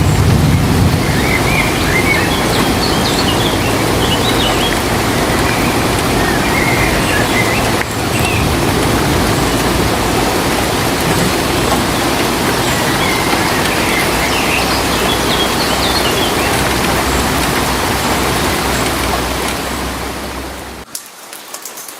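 Heavy rain falling in a steady dense hiss with a low rumble, a few short high chirps sounding over it now and then. About a second before the end it cuts to a much quieter patter of separate raindrops.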